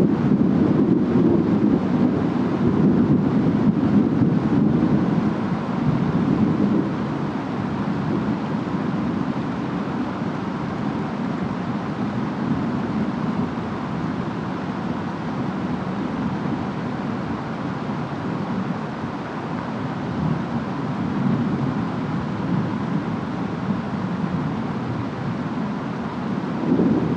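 Storm ambience: a steady wash of wind and rain over a low rumble, louder in the first six seconds or so and swelling again near the end.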